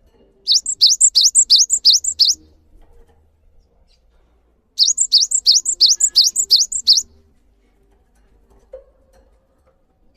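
A songbird singing two bursts of rapid, repeated rising notes, each burst about two seconds long with a couple of seconds' pause between them.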